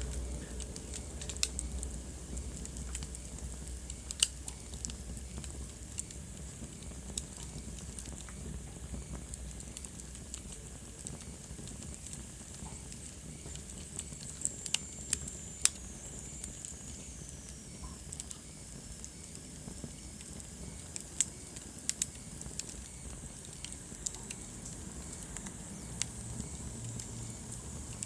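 Wood fire crackling in a fireplace: irregular sharp pops over a soft steady hiss, with a faint high whistle sliding downward around the middle.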